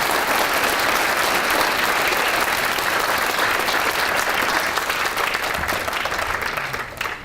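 Audience applauding, a dense steady clapping that thins out and stops near the end.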